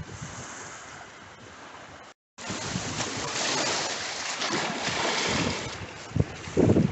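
Ocean surf washing up the beach, with wind buffeting the microphone. The sound cuts out for a moment about two seconds in, then the surf comes back louder, with a few wind gusts near the end.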